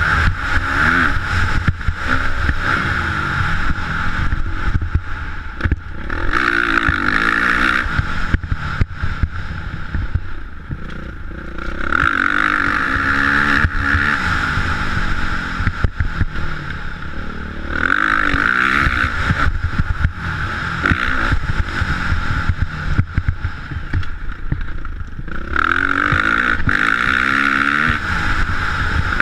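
Motocross bike engine revving in repeated surges, about every five to six seconds, each rising in pitch, over a constant low rumble with many knocks.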